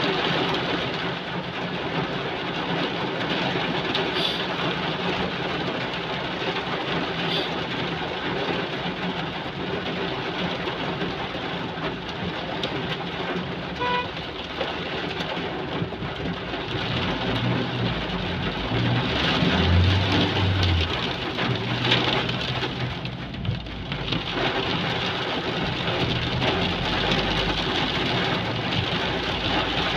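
Heavy rain pouring steadily, with a motor vehicle's engine rumbling past in the second half, loudest about 20 seconds in.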